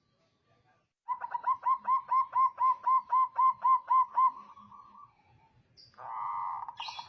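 Zebra dove (perkutut) calling: a quick run of about fourteen cooing notes, about four a second, that trails off, then a harsher, buzzy note about six seconds in.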